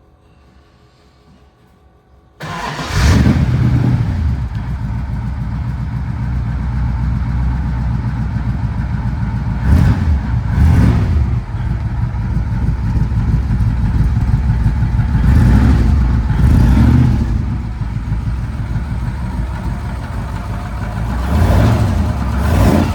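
1933 Ford roadster's 286ci flathead V8 with triple Stromberg carburetors and dual exhaust, heard at the tailpipes, starting from cold after sitting over the weekend: it fires up a couple of seconds in and settles into a steady idle. A few short throttle blips come in pairs along the way.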